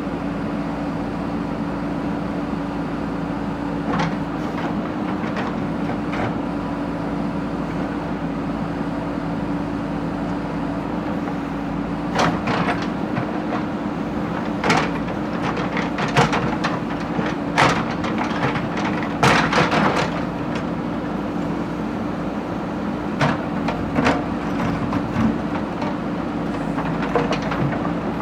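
Backhoe loader's engine running steadily, with scattered sharp metallic knocks and clanks, most of them in the middle of the stretch and a few more near the end.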